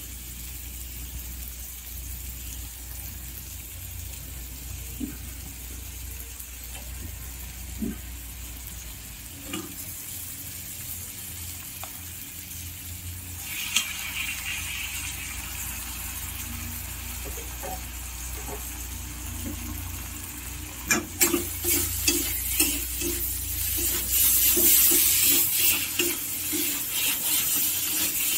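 Paneer, peas and onions sizzling in oil in a wok. About halfway through, a spoonful of paste goes in and the sizzle grows louder. Later a metal spatula stirs and scrapes the pan with repeated clacks.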